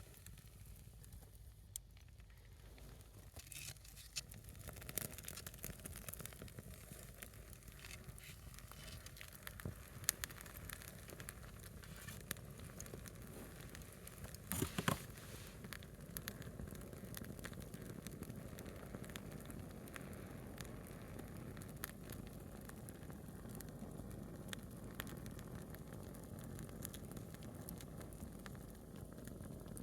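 Small wood fire burning on a single split log, crackling faintly with scattered sharp pops and a brief cluster of louder pops about halfway, over a low steady hiss.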